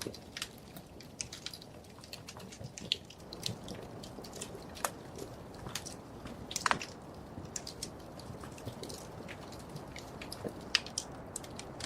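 Wood fire crackling in a fireplace: irregular sharp pops and snaps over a soft steady hiss, with two louder snaps about seven and eleven seconds in.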